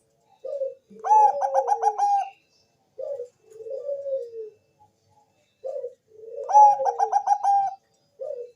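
Bangkok-strain zebra dove (perkutut) singing its cooing song twice. Each phrase starts with low coos and ends in a quick run of about five higher, ringing notes, with single short coos between the phrases.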